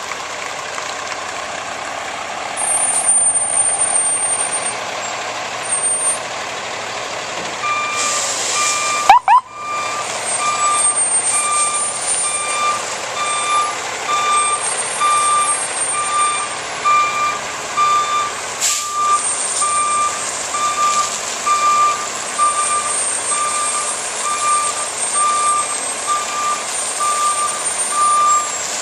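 Fire truck's reversing alarm beeping steadily about once a second as the truck backs up, starting about eight seconds in, over a steady rumble and hiss. A single sharp, loud burst comes just after the beeping starts.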